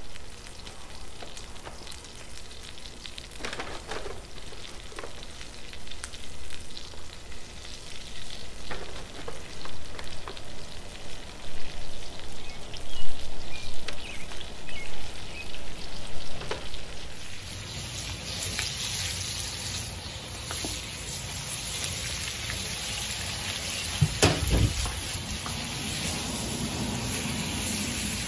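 Chicken frying in hot oil in a cast iron skillet: a crackling sizzle with scattered pops. About two-thirds of the way in it turns to a steadier, louder sizzle, with a brief low knock near the end.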